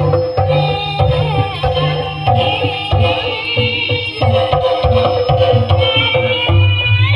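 Live Javanese gamelan music for a folk dance: hand-drum strokes, ringing metallophone notes and a wavering high melody line over them.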